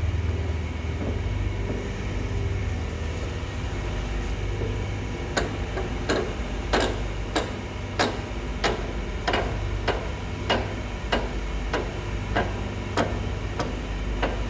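Cardboard baler's motor humming steadily. About five seconds in, a regular series of sharp clicks begins, about one and a half a second.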